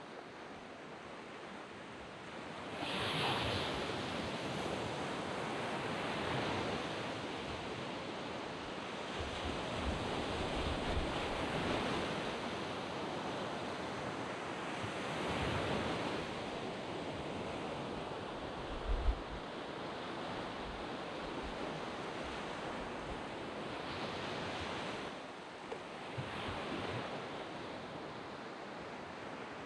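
Waves breaking and washing up a sand beach: a steady surf hiss that swells every few seconds as each wave comes in. There is a brief low thump about 19 seconds in.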